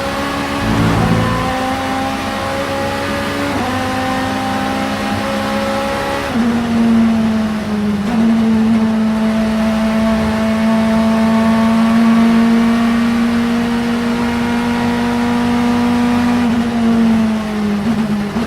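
Vauxhall Vectra Super Touring race car's engine under power, going up through the gears: the note climbs slowly in each gear and steps down at upshifts about a second in, near four seconds and about six seconds in. It then holds one long steady pull and falls away with a few quick dips near the end as the car slows.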